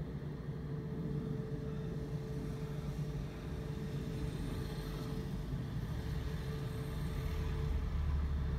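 Steady hum of a car engine idling, heard from inside the cabin. A deeper rumble builds near the end as another car drives past just in front.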